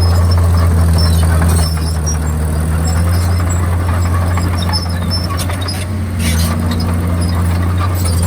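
Komatsu D51PX bulldozer's diesel engine running with a steady low drone, which dips and recovers about two seconds in and again around six seconds. Scattered short high squeaks and a few clicks sit over it.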